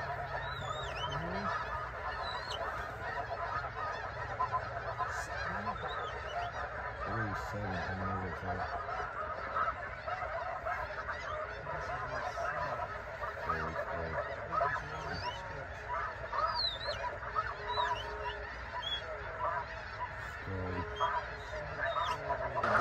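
A large flock of snow geese calling: a dense, unbroken chorus of many overlapping short honks.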